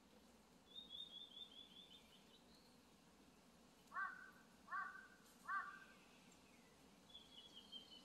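Wild birds calling: a quick run of high, slightly falling notes, then three loud, harsh calls about 0.7 s apart, and another run of high notes near the end.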